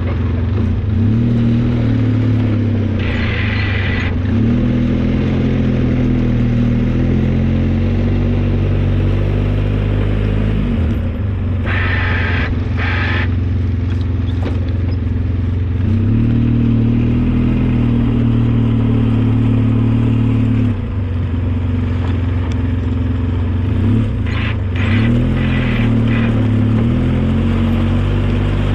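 Engine of a snowplow vehicle running steadily while plowing, its pitch rising and falling several times as it is revved, with a few short clattering sounds.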